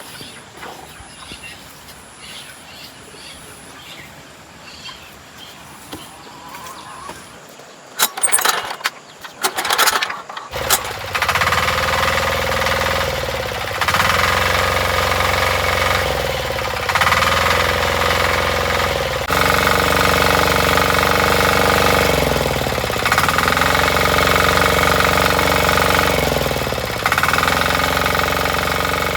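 A walk-behind tiller's engine is started about a third of the way in, after a few loud knocks, and then runs loudly. Its pitch dips and recovers every two to three seconds as the load or throttle changes.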